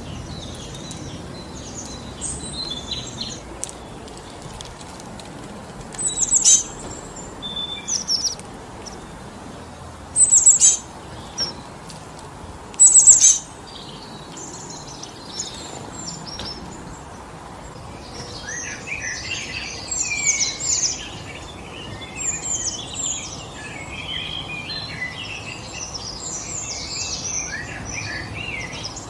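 Wind blowing steadily through forest trees, with wild birds calling over it: three loud, short, downward-sweeping calls about a third of the way in, then many chirps overlapping in a busy chatter from about two-thirds of the way through.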